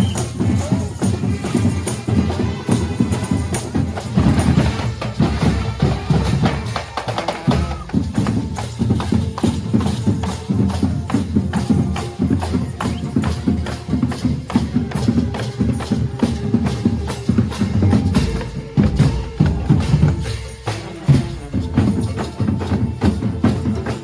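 Cape Minstrel street band playing, with busy, steady percussion driving the music throughout.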